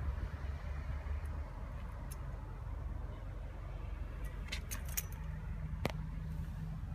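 Car engine running steadily with a low rumble, a faint hum joining in about five seconds in. A few light clicks from the phone being handled come near the end.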